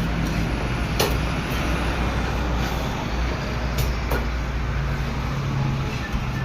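Steady street-traffic rumble and hiss, with a few sharp knocks of a knife chopping fish on a cutting block: one about a second in, one near four seconds, and a louder one at the end.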